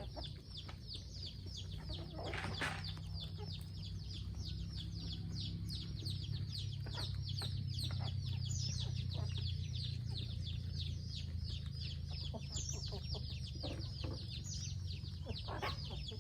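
A flock of free-range chickens clucking and calling, with a few louder calls over constant quick, high chirping and a steady low hum.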